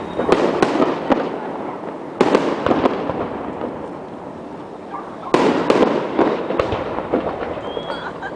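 Fireworks display: three loud bursts, about two to three seconds apart, each followed by a rush of small crackling pops that fades away.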